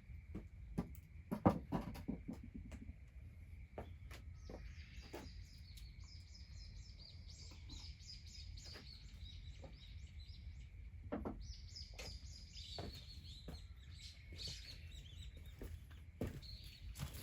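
A songbird singing two long phrases of rapid, high, chattering notes, with scattered sharp clicks and a louder knock about a second and a half in. A faint steady high tone runs underneath.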